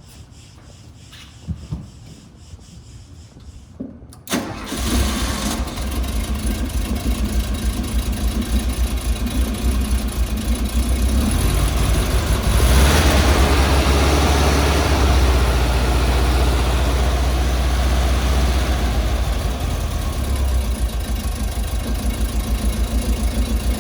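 A 1979 VW Super Beetle Cabriolet's air-cooled flat-four engine starting from cold: a couple of faint clicks, then it catches about four seconds in and settles into a steady, pulsing idle, running a little louder for a few seconds around the middle before easing back.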